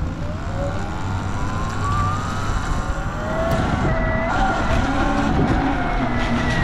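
Surron X electric dirt bike's motor whining as it pulls away. The whine rises in pitch over the first couple of seconds, then wavers up and down with speed over a steady low rumble of tyres on the wet road.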